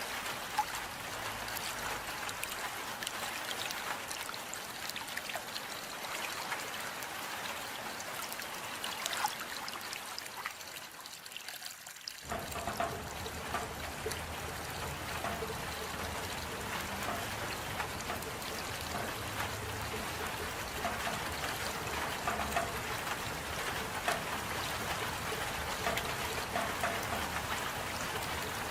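Steady rain with many scattered drops pattering. A little before twelve seconds in it thins slightly, then switches abruptly to a fuller, deeper rain.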